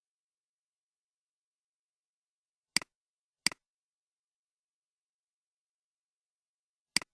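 Three computer mouse clicks on a silent track, each a sharp press followed by a fainter release tick. The first two come close together about three seconds in, and the third comes near the end.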